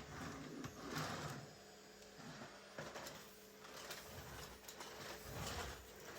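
Irregular soft handling noises: brief rustles and light knocks, a few sharp clicks among them, over a faint steady hum.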